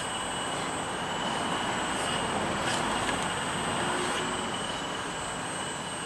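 Radio-controlled model excavator running: a steady high whine over a rushing, grinding noise that swells in the middle, with a few faint clicks.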